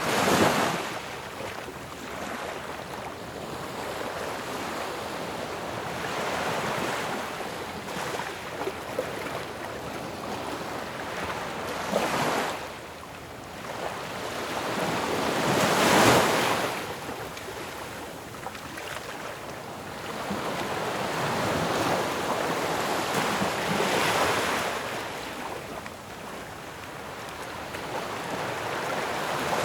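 Ocean waves breaking on a shore in a continuous wash, with several louder crashes, the biggest about halfway through.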